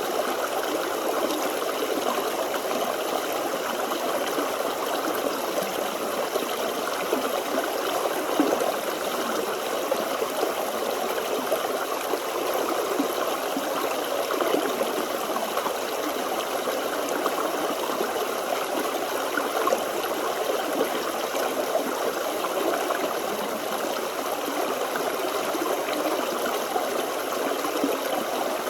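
Small stream flowing steadily over stones, a continuous babble and trickle of running water.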